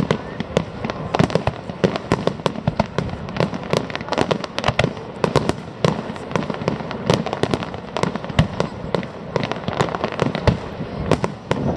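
Aerial fireworks display: shells bursting and crackling in a dense, unbroken run of sharp bangs and pops.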